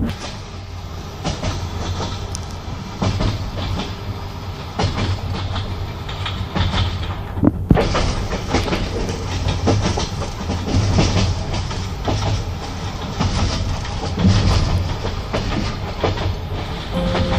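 Passenger railway carriage running along the track: a steady rumble with the wheels knocking over the rail joints, and one sharper, louder knock about eight seconds in.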